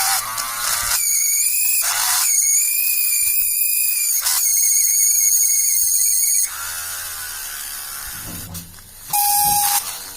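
Homemade drill's small 12 V DC motor whining as it drills a hole, its high pitch wavering under load. About six seconds in the whine drops to a lower hum, with a short steady tone near the end.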